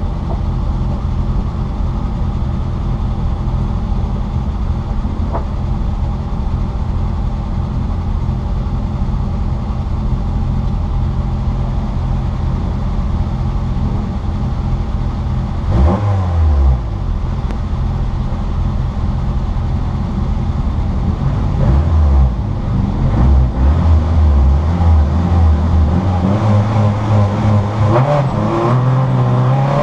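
Citroën Saxo VTR race car's four-cylinder engine held at steady high revs for about fifteen seconds. The pitch then drops sharply as the car slows, the revs rise and fall unevenly through the second half, and they climb again near the end as it accelerates.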